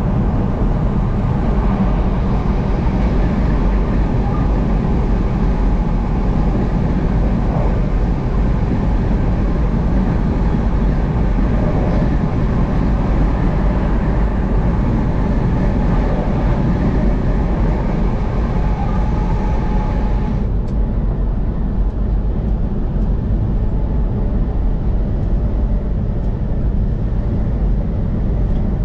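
Steady road noise of a vehicle driving on the highway: a continuous low rumble with hiss above it. About two-thirds of the way through, the higher hiss drops away suddenly while the rumble carries on.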